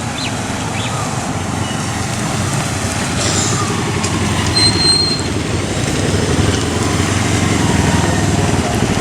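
Motorcycle engines running, growing louder over the seconds, with a brief high-pitched squeal about halfway through.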